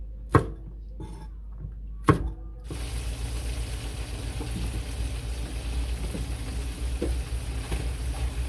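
Two sharp knocks, then a steady rush of water running from a tap into a sink that starts a little under three seconds in.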